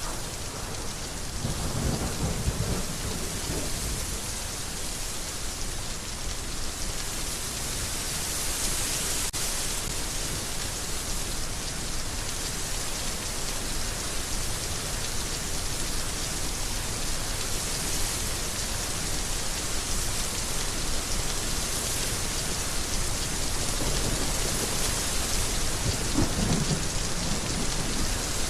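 Heavy rain falling steadily, with low rumbles about two seconds in and again near the end.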